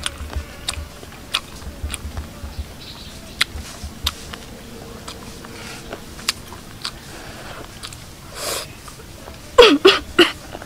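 Someone eating: small sharp clicks of chewing and crunching food, about two a second at first and then sparser. Near the end come a few short, loud voice-like sounds that fall in pitch.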